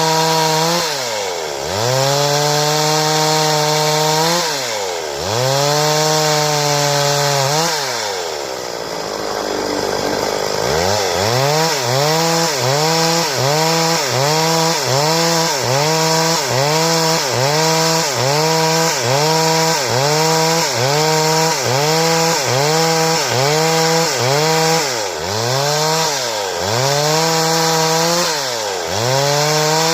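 Stihl two-stroke chainsaw cutting wood, its engine held at high speed and dipping in pitch every couple of seconds, easing down to a low idle about a third of the way in. It then comes back with quick rev pulses about once a second, and longer held cuts again near the end.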